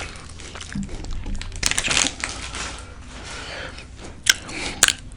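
Close-miked eating of a burrito: chewing with crinkling, likely from the wrapper, and a few sharp clicks about two seconds in and twice near the end.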